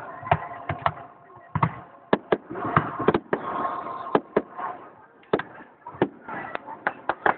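Fireworks display: aerial shells bursting in an irregular string of sharp bangs, with a quick cluster of reports near the end.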